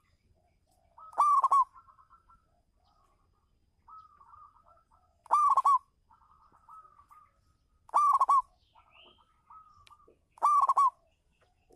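Zebra dove (perkutut) cooing: four loud, short coo phrases spaced about 2.5 to 4 seconds apart, with softer rapid stuttering coos between them.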